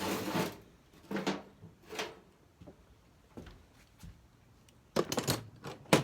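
Short, scattered knocks and clatters of objects being handled and set down: one about a second in, another around two seconds, a few faint ones after, and a quick cluster of louder clunks near the end.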